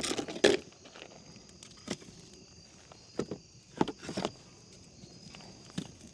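A handful of irregular scuffs and knocks, the loudest in the first half second, over a steady trilling of crickets.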